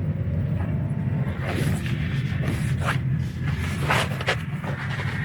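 Car driving along: a steady low engine and road rumble heard from inside the cabin, with a few short knocks and clicks in the middle.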